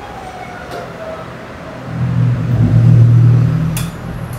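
Electric commuter train at a station platform. A fading, falling whine is followed about two seconds in by a low motor hum that swells and dies away, with a sharp click near the end.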